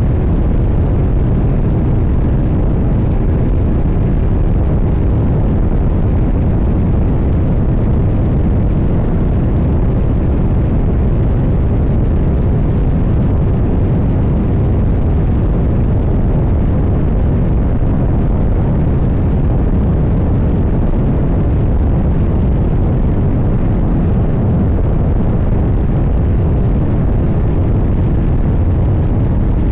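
CFMoto 800NK's 799 cc parallel-twin engine running at a steady pace under heavy wind rumble, heard from a camera mounted on the fuel tank while riding.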